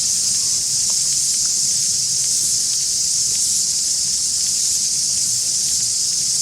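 Dense chorus of cicadas: a loud, steady, high-pitched shrilling.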